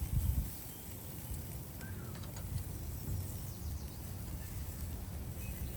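Outdoor ambience: a low, uneven rumble with a few faint short bird chirps.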